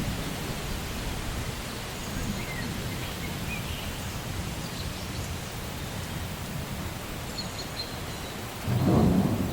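Steady rain hiss in a rainforest soundscape, with a few faint, high bird chirps. Near the end, a short low rumble of thunder rises clearly above the rain, the loudest sound here.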